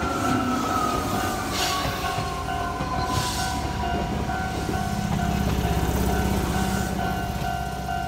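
Chichibu Railway 7500-series electric train passing close by: wheels and running gear rumbling along the rails, louder about five seconds in, with a whine from the train falling in pitch over the first few seconds and a couple of short clatters. A level-crossing warning bell rings steadily in a repeating two-tone pattern.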